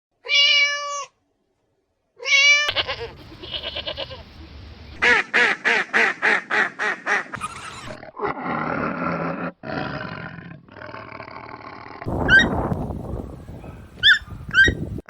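A run of different animal calls cut one after another. Two short, pitched honk-like calls come first, then about nine quick pulsed calls at roughly four a second. Rougher, noisier calls follow, with a few short rising chirps near the end.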